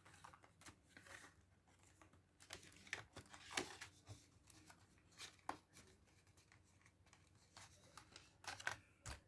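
Faint, scattered rustles and light clicks of paper envelopes and cards being handled, with a few slightly louder snaps.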